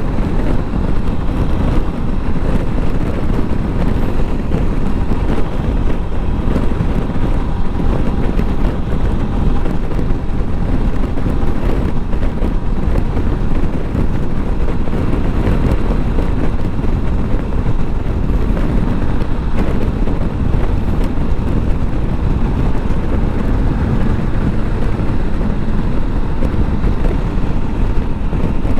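Motorcycle riding at speed, with steady wind noise on the microphone over the engine and road noise.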